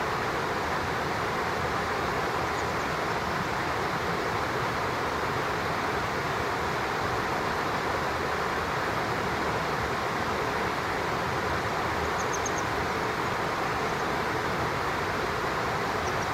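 Steady rushing of flowing stream water, even and unbroken. A brief high bird chirp, three quick notes, comes about twelve seconds in.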